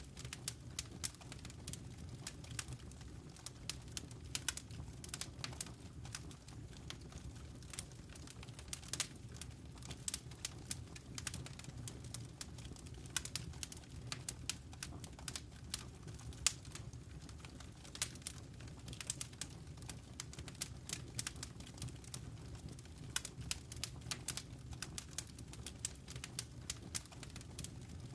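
Wood fire in a fireplace crackling: many small irregular pops and snaps, several a second, over a steady low rumble of burning.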